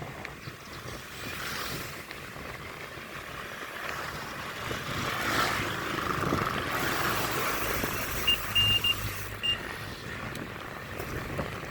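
Road traffic noise with wind, a vehicle passing about five to six seconds in, and a few short high beeps between about eight and nine and a half seconds in.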